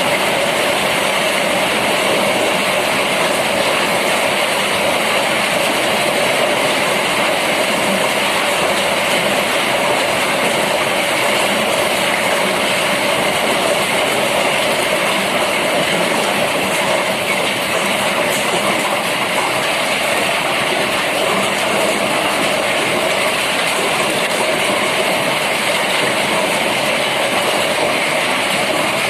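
Heavy rain falling steadily in a storm: an even, unbroken downpour.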